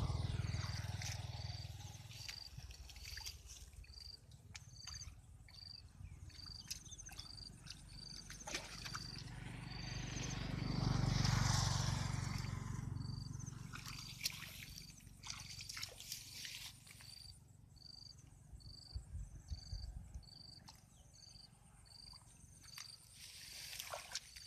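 Rural outdoor ambience: a short high chirp repeating about twice a second, with a low rumble that swells and fades around the middle and scattered small clicks.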